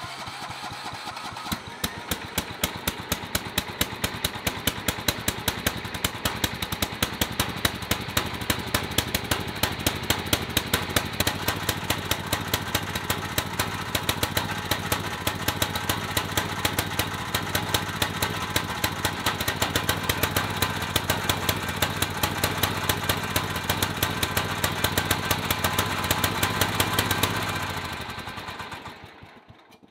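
1975 Sears lawn tractor's small gasoline engine running steadily with a rapid, even firing pulse while the tractor is driven in gear. The engine winds down and stops near the end.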